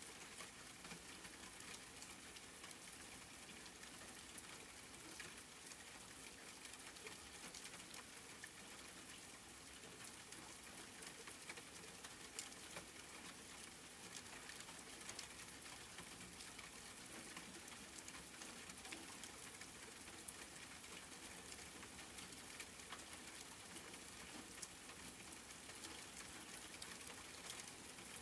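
Wood fire crackling in a fireplace: a steady soft hiss with frequent small pops and snaps.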